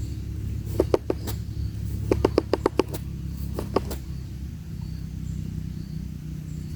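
Woodpecker pecking on rotting wood at its nest hole: a few sharp taps, then a quick run of about seven at roughly ten a second, then two more, over a steady low rumble.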